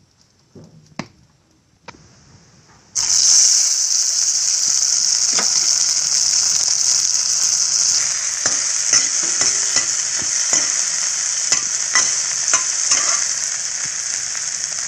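Chopped tomato frying in hot oil in a metal wok: the sizzling starts suddenly about three seconds in and runs on loud and steady. From about the middle, a ladle stirring the pieces adds light scrapes and taps.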